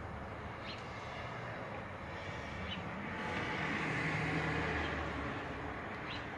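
A vehicle passing by, its sound swelling and fading in the middle, with three short bird chirps over it.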